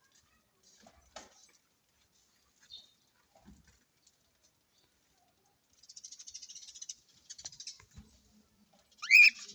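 Small perched birds making faint scattered clicks, then a fast, high chattering for about a second and a half, and one loud, sharp chirp near the end.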